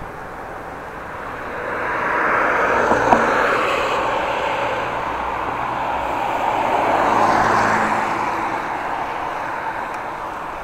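Road traffic passing: a rush of tyre and engine noise that swells twice, loudest about three and seven seconds in, then fades.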